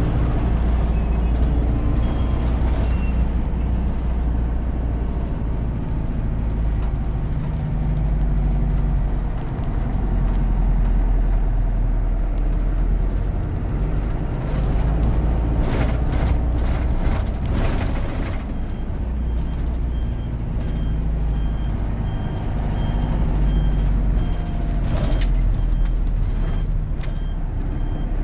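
City bus driving, its engine running with a low drone that rises and falls with speed. A few short noisy bursts come a little past halfway, and a repeated high beep sounds from about two-thirds of the way through.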